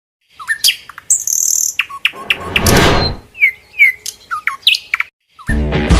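Bird chirps and short, quick falling whistles, with a brief rushing swell of noise about halfway through. Music with a beat starts near the end.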